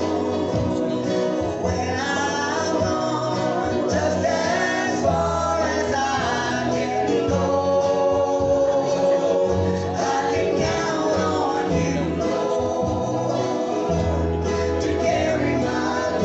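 Live gospel music: several voices singing in harmony over guitar, bass and a steady drum-machine beat.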